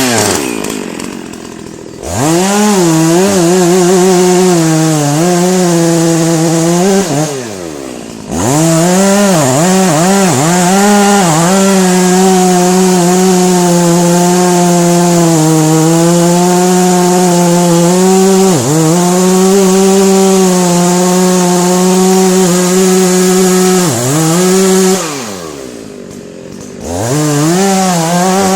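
Two-stroke chainsaw cutting wood at full throttle in long steady pulls, with the throttle let off three times so the engine drops away toward idle, and a few quick revs in between.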